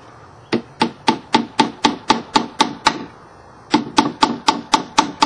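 Hammer driving a nail into a wooden board: quick, even blows at about four a second, each with a short ring. The blows stop for under a second midway, then resume at the same pace.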